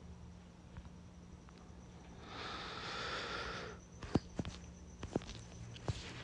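A person sniffing once, a long breath in through the nose lasting about a second and a half, followed by a few light clicks.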